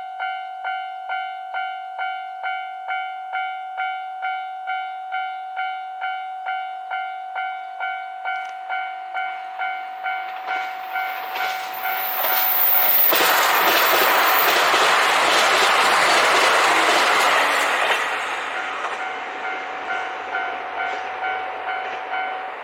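Japanese railway crossing bell ringing about twice a second. About twelve seconds in, a five-car KiHa 261 series diesel limited express passes through the crossing with a loud rumble and clatter of wheels for about six seconds. The passing sound fades afterwards, and the bell rings on until it stops at the very end.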